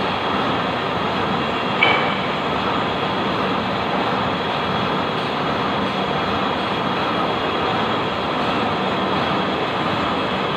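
Lathe running with a steady mechanical noise and a faint high whine. A brief sharp ringing squeal comes about two seconds in.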